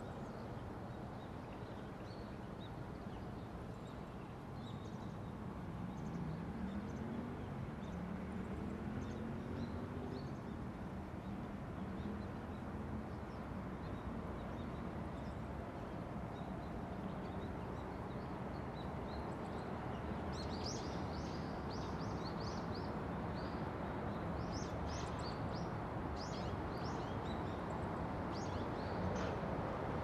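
Short, high bird chirps in quick clusters, mostly from about two-thirds of the way in, over a steady low background rumble. About six seconds in, a low drone rises in pitch and then levels off.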